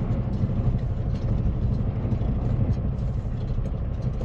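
Semi truck's diesel engine running steadily, a low drone as the rig creeps along.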